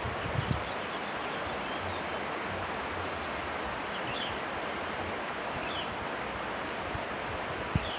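Steady rushing outdoor noise, with a few faint short high chirps scattered through it and a soft low thump near the start and near the end.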